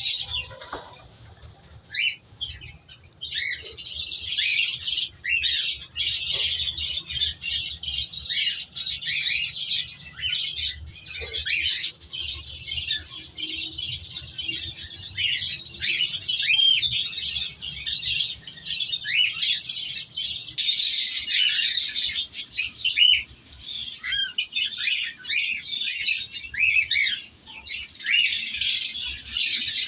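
A flock of cockatiels chirping and calling continuously, many short overlapping chirps, with a louder, harsher burst of calling about two-thirds of the way through.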